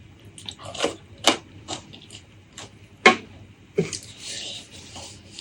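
Close-miked eating sounds: wet mouth clicks and smacks from chewing, coming irregularly, with a longer hissy stretch of chewing or slurping about four seconds in.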